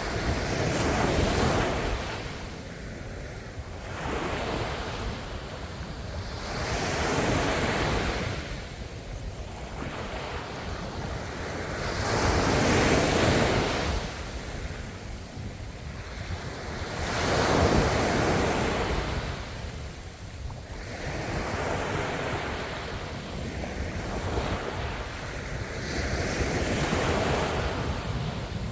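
Ocean waves washing onto the shore, the surf swelling and falling away in surges a few seconds apart.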